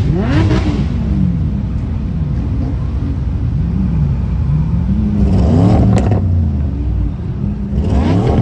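High-performance car engines revving as supercars pull away one after another, the engine note rising and falling several times, with a sharp pop about six seconds in.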